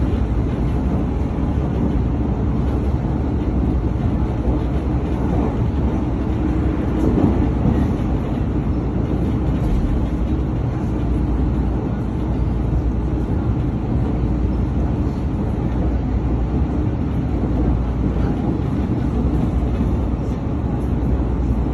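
Steady running rumble of a train in motion, heard from inside the carriage.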